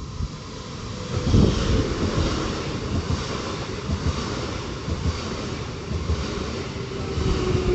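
Train running through the station: a steady rush of wheel and air noise with low rumbling and a heavier thump about a second and a half in, over a faint whine that slowly drops in pitch.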